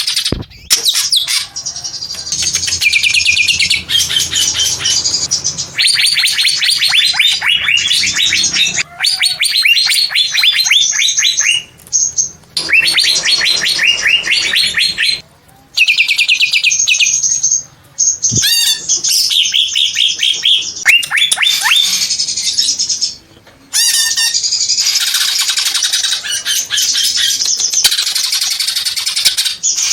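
Cucak hijau (greater green leafbird) singing loud, long runs of rapid repeated high notes, in phrases of a few seconds with brief pauses between them.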